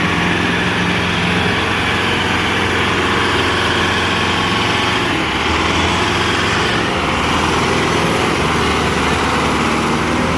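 A tractor's diesel engine running steadily, its pitch shifting slightly now and then.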